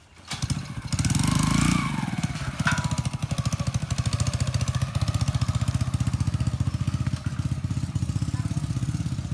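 Small motorcycle engine of a Philippine tricycle (trike) starting up about a third of a second in and revving briefly. It then settles into a steady idle with an even, pulsing beat.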